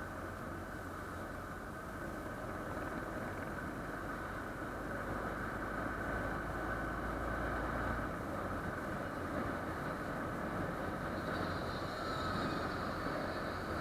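Motorcycle on the move: a steady rush of wind and engine noise while cruising, with a higher hiss joining near the end.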